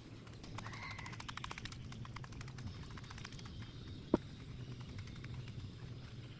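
Laying hens: a short cluck near the start over a quick run of clicks, and one sharp tick about four seconds in.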